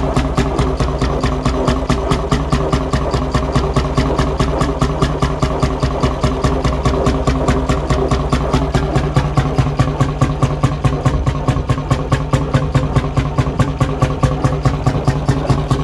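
1957 McDonald type YD two-stroke hot bulb engine running steadily at low speed, with an even beat of firing strokes, several a second.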